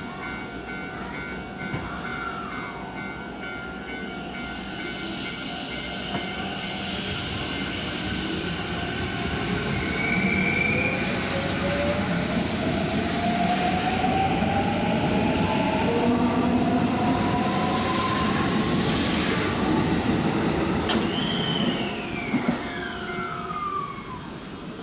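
Sanyo 6000 series electric train accelerating, its motor whine rising steadily in pitch over rail and wheel noise, then a descending tone near the end as the sound fades.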